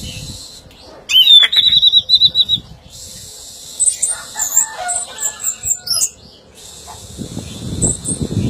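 Orange-headed thrush singing: a loud, rapid trill about a second in, then a quieter run of varied whistled notes. A low rustling noise comes in near the end.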